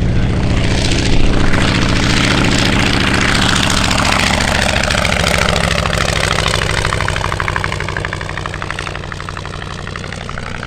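Piston-engined propeller aircraft flying past, loud at first and then fading away over the last few seconds, its pitch sweeping as it goes by.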